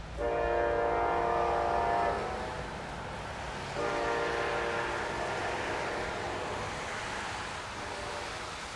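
Locomotive air horn sounding two long blasts. The first lasts about two seconds; the second starts about a second and a half later and fades away, over the steady noise of the passing train.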